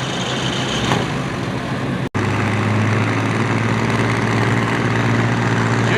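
Antique farm tractor engine running steadily. The sound drops out for an instant about two seconds in, then resumes as a steady engine note with a strong low hum.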